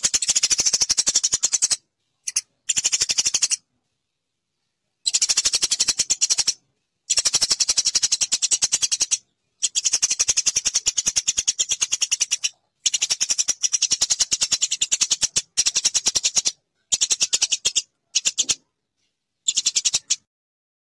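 Eurasian tree sparrow (burung gereja) chirping in fast, rattling high-pitched runs. The runs come in bursts of one to three seconds that cut off suddenly, with short silent gaps between them.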